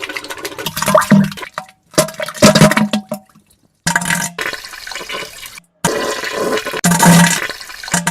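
Wet, splattering diarrhea and farting sounds in a run of short spliced clips, each cut off abruptly by a brief silence, with short low buzzy fart tones among the spluttering.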